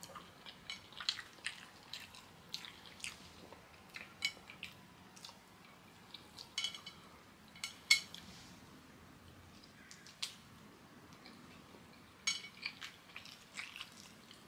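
Close-up eating sounds of a person chewing kenkey: wet mouth clicks and smacks at irregular intervals, a few of them sharper.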